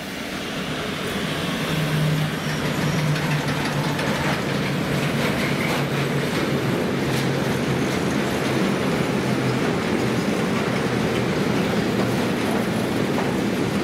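A train passing along the track: the rail noise swells over the first two seconds, then holds steady, with a low hum for a few seconds after it peaks.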